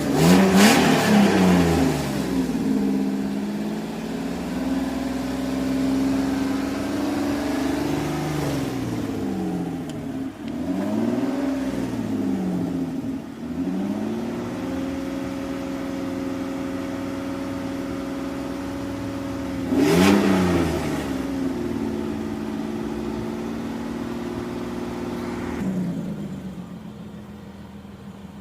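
Car engine being revved in blips after a Seafoam treatment, working the cleaner through: a sharp rev at the start, a run of rises and falls around the middle, another sharp rev about two-thirds through, then it drops back to a steady idle near the end.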